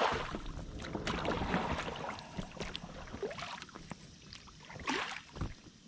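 Kayak paddle strokes swishing and splashing in the water at an uneven pace, with drips and small water sounds between them.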